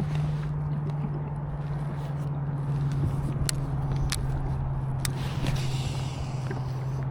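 Old Town 106 PDL kayak's pedal drive running under steady pedalling: a low, even hum that drops slightly in pitch, with scattered sharp clicks and wind and water noise over it.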